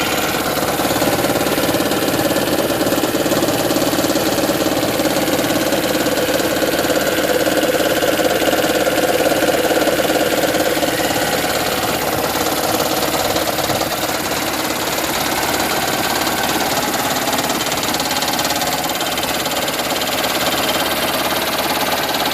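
2010 Toyota Prius 1.8-litre four-cylinder engine idling with a rapid, rough knocking, the 'raptor sound'. The owner links it to the engine idling while charging the hybrid battery, in a car of over 300,000 miles.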